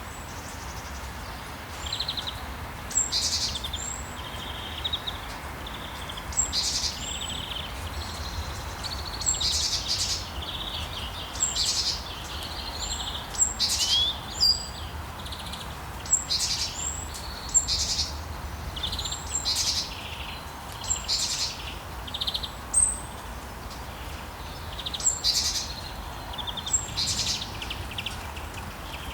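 Songbirds chirping and trilling in short, high calls that come every second or so, over a steady wash of sea waves.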